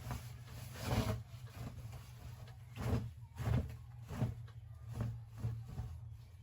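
Several soft knocks and bumps over a steady low hum, like things being handled and set down indoors.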